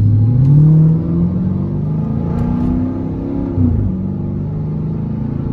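Car engine accelerating: its pitch climbs over the first second, loudest there, then holds and wanders before dropping back about three and a half seconds in.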